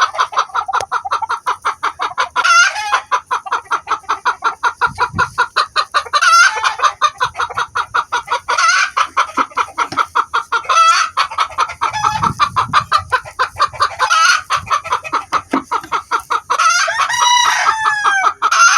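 A hen sounding her alarm call: rapid, steady clucking, about five a second, broken every couple of seconds by a louder, higher squawk, with a longer, falling call near the end.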